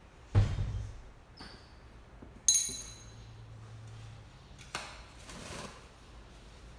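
Kitchen prep handling sounds: a dull thud, then a sharp ringing clink like a metal utensil or glass struck on a hard surface, then a light knock and a brief rustle.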